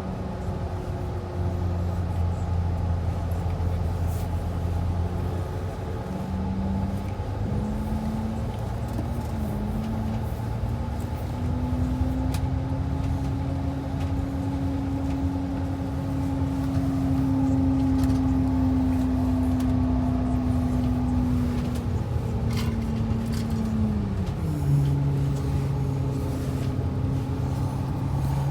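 Transit bus engine running under way over road noise. Its pitch wanders, climbs and holds for several seconds, then falls sharply near the end, as at a gear change.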